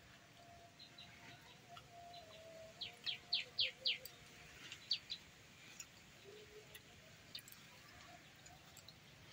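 A small bird chirping in short, high notes: a quick run of about five louder chirps around three seconds in, with fainter chirps scattered before and after, over quiet outdoor ambience.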